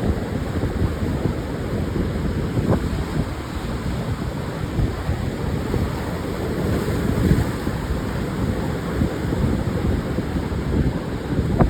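Surf washing onto a sandy Pacific beach, with wind buffeting the microphone in a steady low rumble; a brighter wash of surf swells briefly just past the middle.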